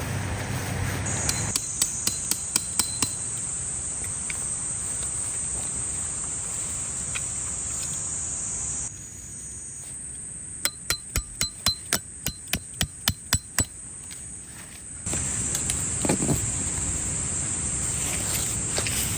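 A hammer striking metal tent stakes with ringing, metallic blows: a quick run of about six strikes near the start and about ten evenly paced strikes in the middle. Summer insects, cicadas or crickets, drone steadily throughout.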